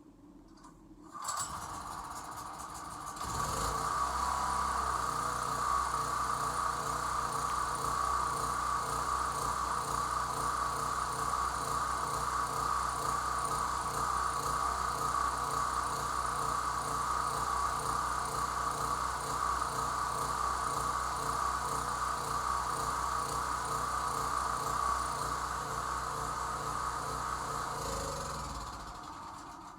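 Small portable generator's engine starting up, running steadily with an even pulsing beat for about 25 seconds, then shut off and coasting to a stop near the end.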